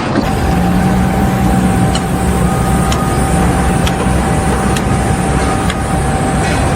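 Steady low rumble of a running engine, with a thin steady whine above it and faint ticks about once a second.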